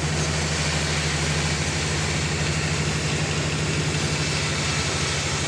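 Sawmill engine running steadily with an even, rapid low pulse.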